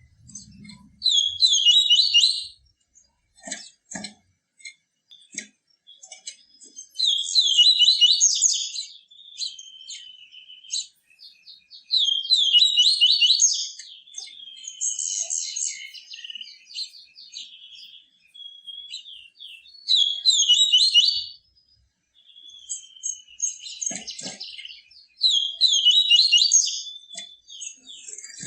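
Papa-capim seedeater singing its 'tui tui viviti' song: phrases of fast, high twittering a couple of seconds long, repeated about every five seconds, with short chips between. A couple of faint low knocks come in between the phrases.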